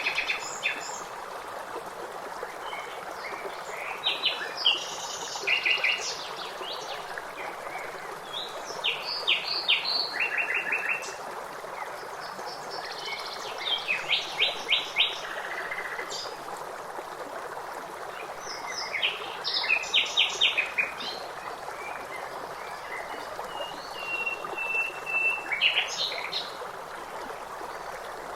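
Songbirds singing short phrases of rapidly repeated high notes, a phrase every four to five seconds, over the steady rush of running water.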